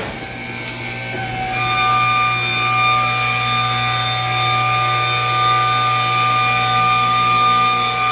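Electric hangar door motor and drive running as the door is closed part way. It starts suddenly after a click and holds a steady mechanical whine with several fixed tones.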